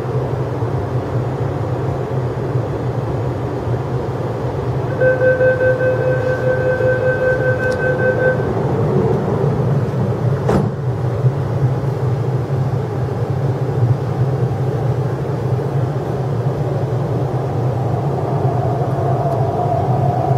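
Inside an MTR East Rail Line R-train at a station stop: steady hum of the standing train, then the door-closing warning tone for about three seconds, and a single knock as the doors shut about ten seconds in. Near the end a rising whine sets in as the train starts to pull away.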